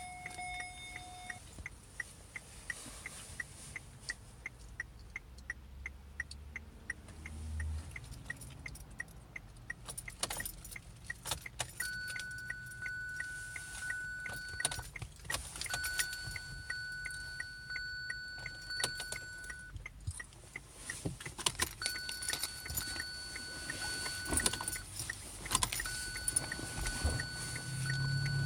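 Keys jangling and clicking on a 2017 Kia Sorento that won't start. A quick, even ticking runs through the first third, about two to three ticks a second. From about twelve seconds in, a steady electronic warning beep sounds four times, each beep about three seconds long.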